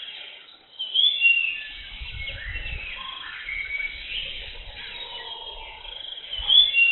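Jungle birds chirping and calling: many short, sweeping whistled calls overlapping, the loudest about a second in and near the end, over a faint low rumble.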